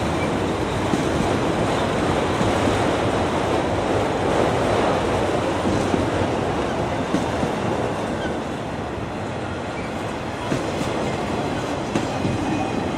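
A train's cars rolling past on the rails: a steady rumble of wheels on track, with a few sharp clicks from the wheels.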